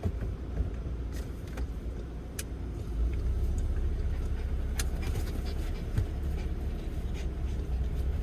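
Volkswagen T5 van driving: a steady low rumble that grows louder about three seconds in, with a few light clicks.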